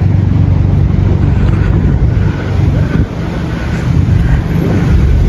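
Loud low rumble of wind buffeting the phone's microphone, mixed with street traffic.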